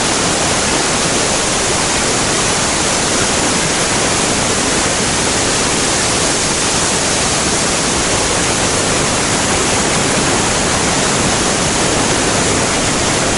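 Waterfall and rapids rushing over sandstone: a loud, steady rush of water with no breaks.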